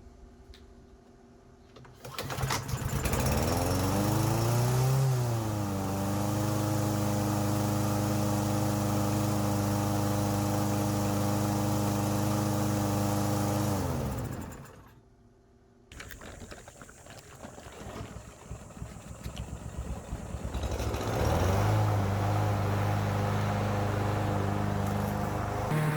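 Troy-Bilt TB110 mower's Briggs & Stratton engine starting about two seconds in, revving briefly, then running steadily. About fourteen seconds in it slows and stops with a falling pitch. It then sputters back to life and runs steadily again for the last few seconds.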